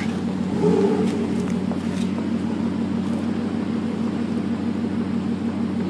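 A car engine idling steadily: a low, even hum that does not change.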